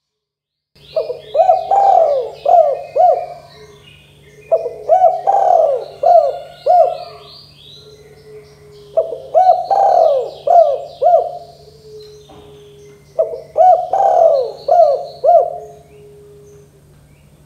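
Spotted dove cooing: four phrases of several quick, clipped coos each, a few seconds apart, starting about a second in. Smaller birds chirp high above the coos, and a low steady hum runs underneath.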